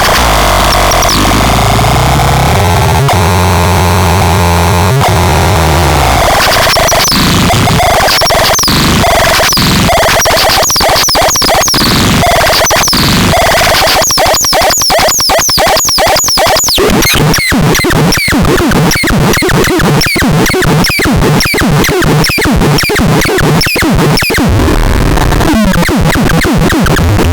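Loud, harsh electronic noise: a dense distorted wash with repeated quickly falling sweeps, breaking about halfway into rapid repeated pulses.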